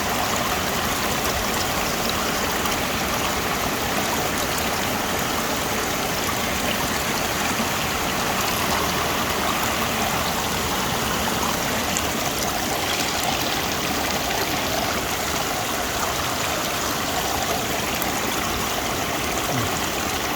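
A stream running: a steady rush of flowing water.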